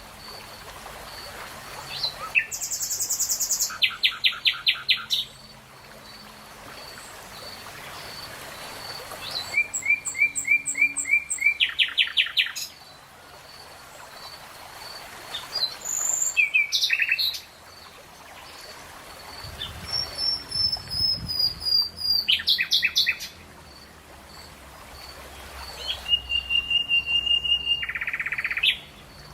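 A songbird singing in repeated phrases, each a quick series of whistled notes and trills lasting a second or few, about five phrases with pauses between, over a faint steady background hiss.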